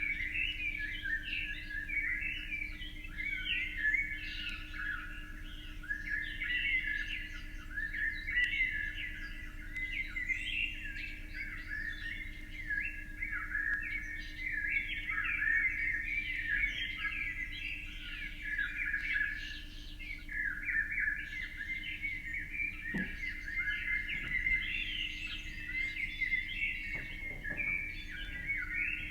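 Many small birds chirping and calling at once in a dense, continuous chorus of short high chirps, over a faint steady low hum.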